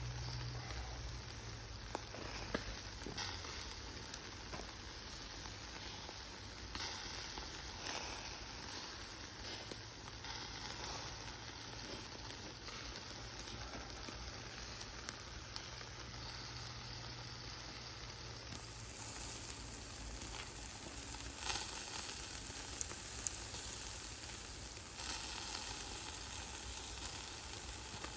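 Food frying and sizzling steadily, with a few sharp pops here and there.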